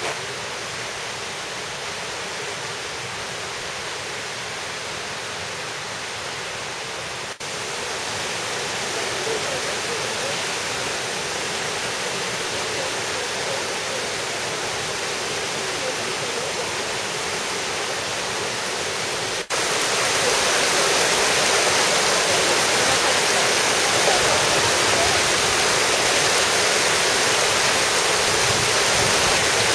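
Steady rush of water in a mountain valley, a waterfall and stream. It gets abruptly louder twice, about a third of the way in and again about two thirds in.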